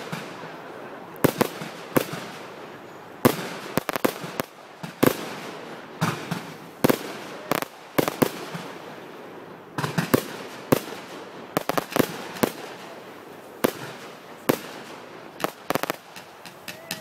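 Aerial fireworks going off in a continuous display: sharp bangs of shells bursting, irregularly spaced, often about one every half-second to second and sometimes in quick clusters of several.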